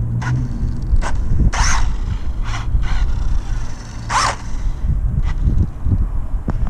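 WLtoys radio-controlled short course truck driving: a faint steady motor hum with short scraping rushes, four in all, over steady wind noise on the microphone.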